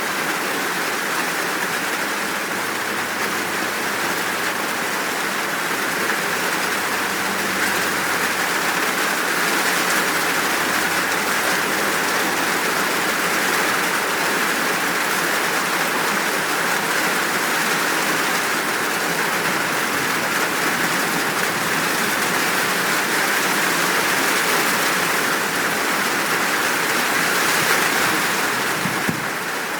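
Steady rain, a full, even downpour hissing without a break.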